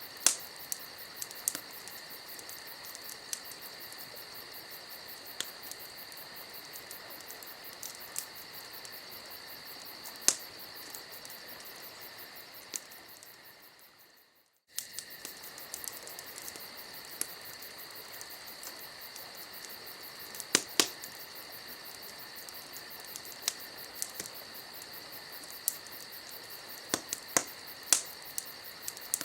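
Campfire ambience: wood crackling with scattered sharp pops over a steady chirring of night insects. About halfway through it fades down to near silence and then cuts straight back in, like a looped recording starting over.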